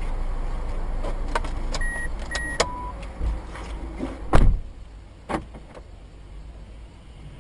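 Steady low road rumble heard from inside a moving car, with a few clicks and three short electronic beeps, then one loud thump about four seconds in and a smaller knock a second later.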